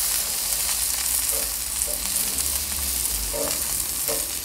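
Butter melting and sizzling on a hot cast-iron griddle plate beside a frying beef patty: a steady, even hiss.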